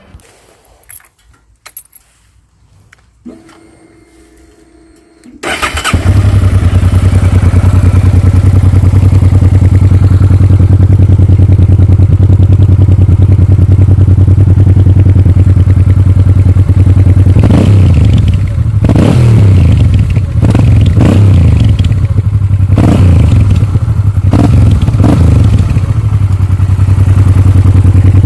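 Honda Transalp XL700's V-twin engine being started: a few light clicks and a short whir, then the engine catches about five seconds in and idles with a deep, steady exhaust note. In the second half the throttle is blipped several times, the revs rising and falling, before it settles back to idle.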